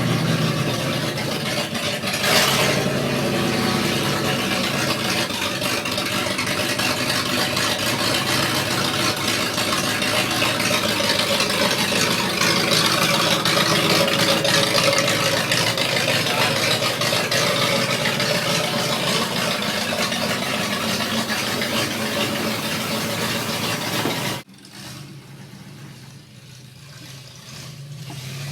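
Pickup truck engine running, with a loud rushing noise over it. The sound drops off abruptly about 24 seconds in, leaving a much quieter engine idling.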